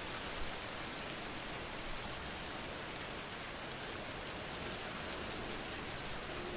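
Steady rain falling, an even hiss of drops on surfaces with a faint tick about half a second in; no thunder is heard.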